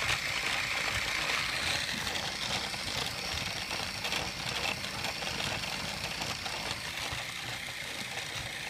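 Battery-powered TrackMaster toy train's motor whirring steadily as its wheels spin the rollers of the Sodor Washdown accessory, turning the moving brush wires.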